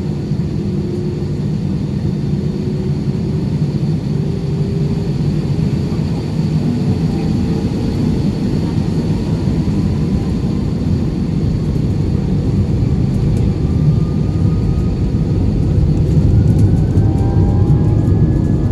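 Airbus A320 jet engines heard from inside the cabin: a steady loud rumble with faint whining tones that slowly rise in pitch as the engines spool up, growing a little louder toward the end.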